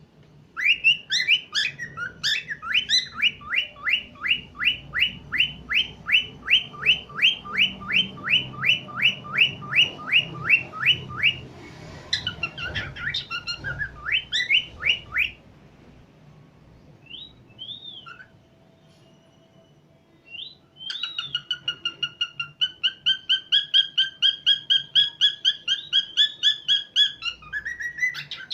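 Cockatiel whistling a long run of rapid, evenly repeated notes, about four a second. Near the middle it breaks off into a quiet spell with a few single whistles, then starts a second fast run.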